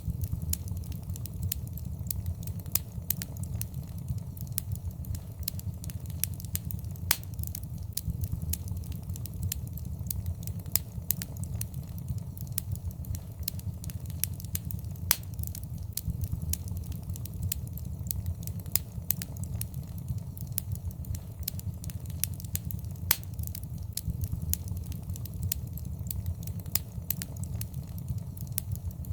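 Fireplace fire burning with a steady low rumble and irregular crackles and pops of burning wood, a few of them louder.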